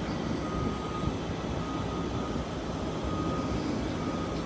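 Steady low rumbling noise, with a faint thin high whine that comes and goes.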